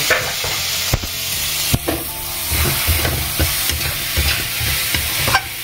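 Onion-spice masala sizzling in hot oil in a pan as chopped tomato goes in and is stirred with a spatula. There is a steady frying hiss, and the spatula scrapes and clicks against the pan, sharpest about one and two seconds in.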